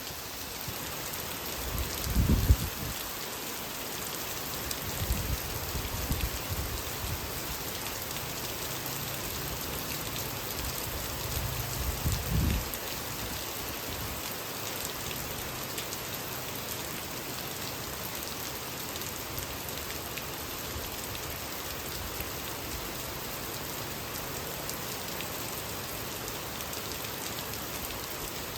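Heavy rain falling steadily, with two short low rumbles about two seconds and twelve seconds in.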